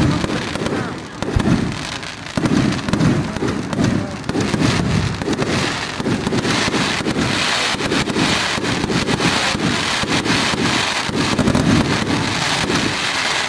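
Aerial fireworks bursting in quick succession, about one low boom a second. A dense crackle joins in from about halfway through.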